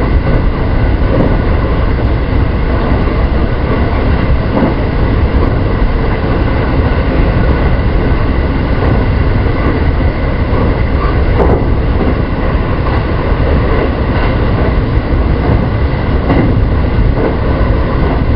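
JR West 223 series electric multiple unit running at speed, heard from aboard the leading car: a steady rumble of wheels on rail, with faint clicks over the rail joints.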